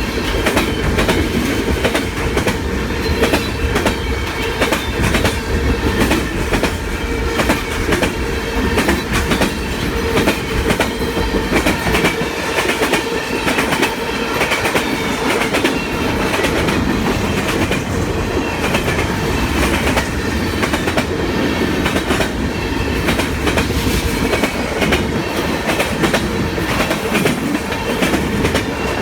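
Freight train cars rolling steadily past, their steel wheels clicking rhythmically over rail joints, with a faint squeal now and then.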